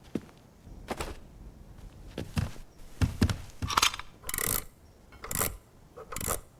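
Cartoon sound effects of metal being handled: a string of irregular clicks, knocks and short scrapes, about a dozen, some with a brief metallic ring.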